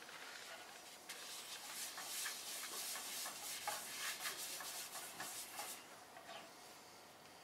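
Paper towel rubbing around the inside of a nonstick frying pan in quick back-and-forth wiping strokes. It starts about a second in and stops about a second before the end.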